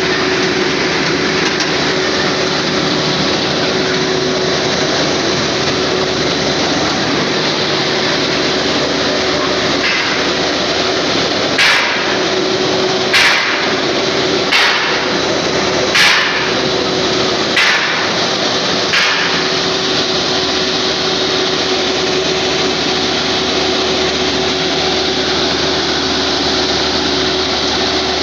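John Deere engine driving a side-boring machine, running steadily at constant speed. In the middle come six sharp knocks, about a second and a half apart.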